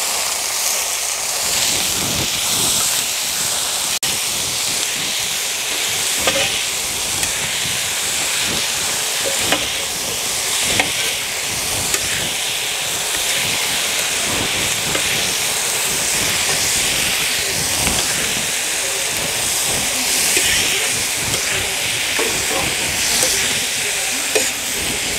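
Raw chicken pieces frying with onion and tomato in hot oil in a large iron kadai, a steady sizzle. A few short knocks and scrapes of a spatula stirring the pan.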